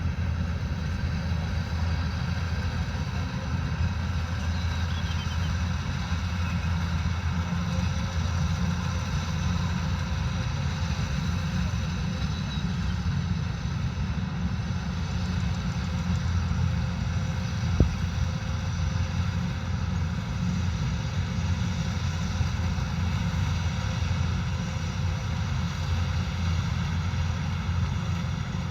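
Kubota combine harvester running steadily, a constant deep engine drone overlaid with a steady set of higher machine tones. A single sharp click comes about two thirds of the way through.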